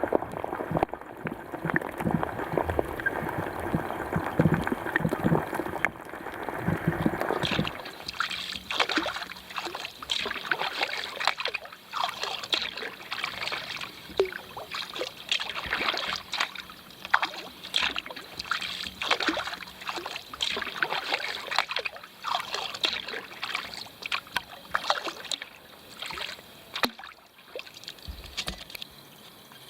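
Kayak paddling: a steady series of splashes as the paddle blades dip into the lake, about one a second, after a denser rush of water in the first several seconds.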